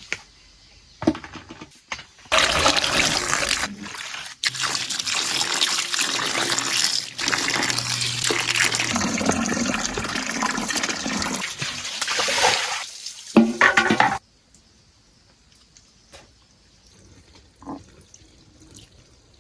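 Water running and splashing for about twelve seconds, then stopping suddenly.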